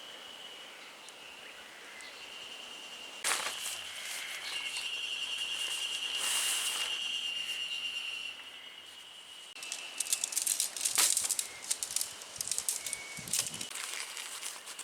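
A steady high-pitched outdoor drone, with a sharp knock about three seconds in, a brief rush of rustling a few seconds later, and then a run of quick rustling and clicking near the end.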